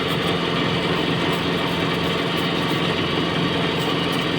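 Split air conditioner's outdoor unit running, its compressor and fan giving a steady mechanical hum.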